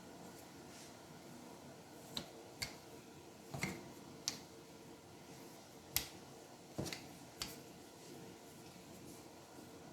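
Rolling pin and board knocking as noodle dough is rolled out by hand: about seven scattered sharp taps and clicks over a faint steady hum.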